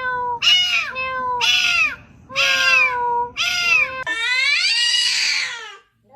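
A domestic cat meowing repeatedly: about five short meows in a row, then one longer drawn-out meow near the end.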